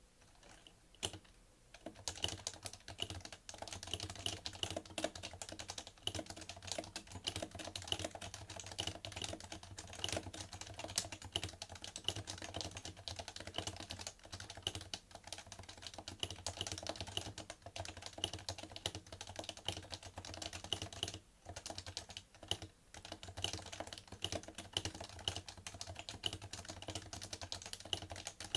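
Fast, continuous typing on a PFU Happy Hacking Keyboard Professional2 with Topre electrostatic capacitive switches: a dense, irregular stream of soft key strokes that starts with a few single taps and briefly pauses twice near the end.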